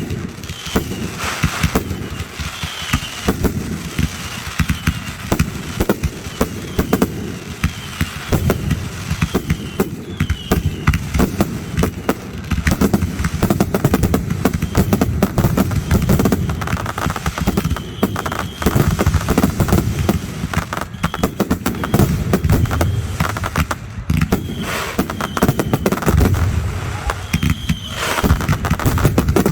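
Fireworks going off in a dense, continuous barrage: many sharp bangs and crackles a second, with a few faint short whistles.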